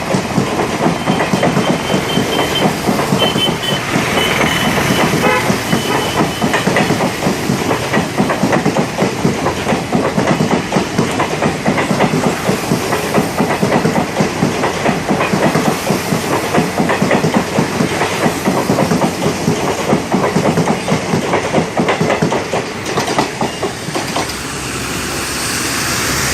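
Passenger express coaches rolling past at speed, a dense, rapid clickety-clack of wheels over rail joints that eases off about 23 seconds in.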